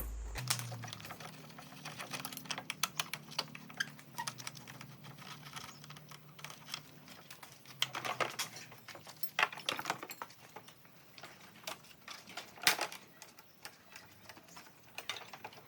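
Irregular light clicks and taps, a few sharper knocks among them, over a low hum that fades away about halfway through.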